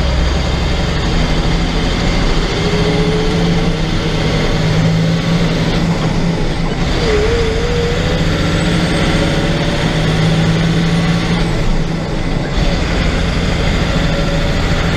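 Big truck driving steadily down the road: a continuous engine drone with road and tyre noise.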